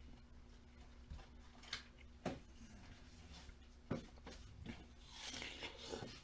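Crunching bites with pauses between: sharp cracks a couple of seconds in and again about four seconds in, then a longer crunching, rustling chew near the end.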